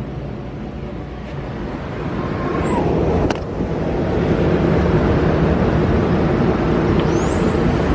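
Street traffic noise from cars, mixed with wind buffeting the microphone, swelling louder about two seconds in, with one sharp click near the middle.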